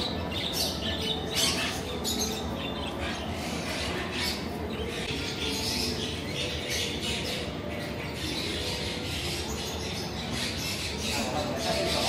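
Birds chirping and squawking in many short calls over a steady, busy background noise.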